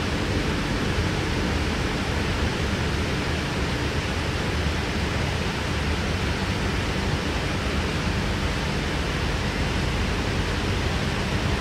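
Steady interior running noise of a K-set double-deck electric suburban train carriage in motion: an even rush of wheel and rail noise with a low hum underneath.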